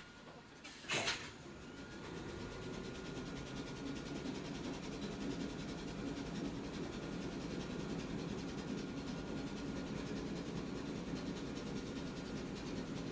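Inside a Hakone Tozan Railway Moha 1 nose-suspended-motor electric car: a short sharp burst of air about a second in, then the car's running noise, a low steady hum of motors, gears and wheels with a faint high tone, building over the next few seconds and holding steady.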